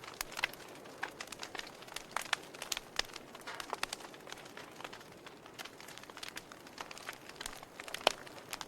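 Wood fire crackling: irregular sharp pops and snaps over a low steady hiss, with one louder snap near the end.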